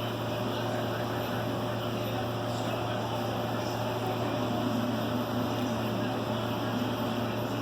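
Steady low mechanical hum with a constant drone, even in level throughout.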